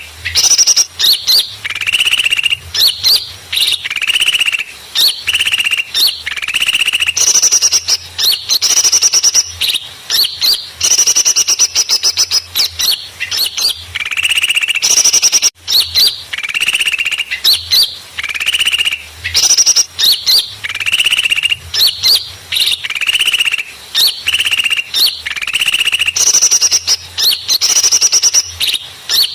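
Bird-trapping lure recording of a crowd of small songbirds calling excitedly: loud, rapid chattering trills and high chirps in bursts about a second long, one after another with short gaps.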